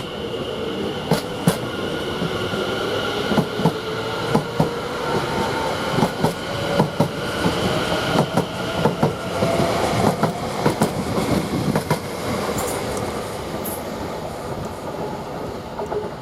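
Class 720 electric multiple unit pulling away, its traction motors whining and slowly rising in pitch as it gathers speed, with a string of sharp clicks from the wheels over rail joints and points. The sound eases off near the end.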